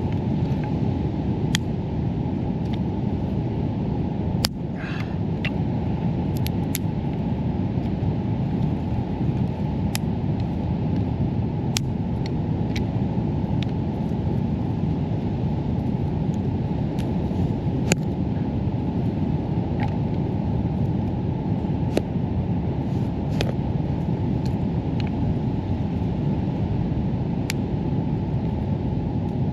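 Steady low outdoor rumble with scattered sharp clicks and ticks.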